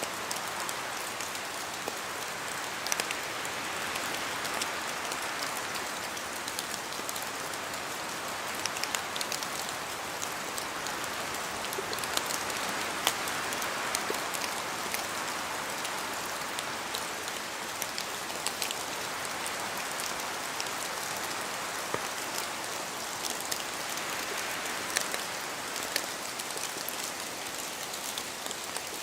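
Steady rain in a forest, with scattered sharp ticks of drops falling from the trees onto leaves and a hiss that swells and eases every several seconds as the wind gusts through.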